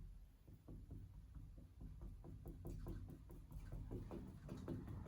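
Paintbrush dabbing and tapping on a canvas, a run of quick faint taps several times a second.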